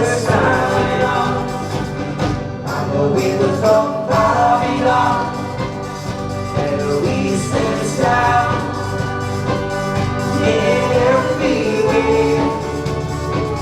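Live band playing a pop song with several voices singing together.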